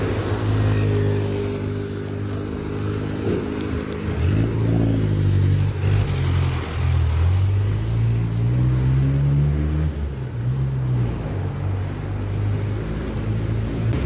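A motor vehicle's engine running close by in road traffic, its pitch rising as it accelerates about eight seconds in and dropping near ten seconds, over steady road and wind noise.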